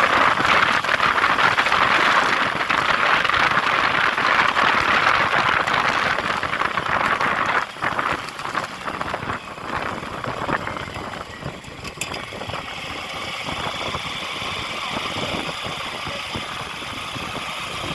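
A vehicle engine running under a dense, steady hiss that eases off about eight seconds in.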